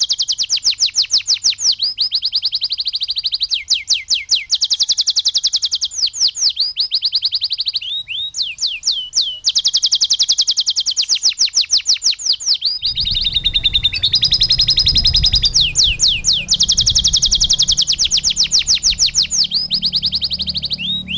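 Domestic canary singing: fast trills of repeated high sweeping notes, each run lasting a second or two before switching to a new note type. A low hum joins about thirteen seconds in.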